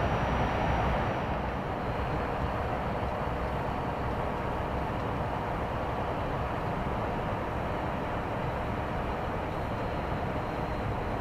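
Steady engine and road noise heard from inside the cab of an articulated lorry on the move.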